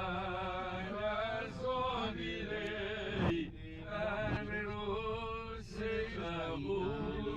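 A man singing in long held, wavering notes, broken by short pauses between phrases.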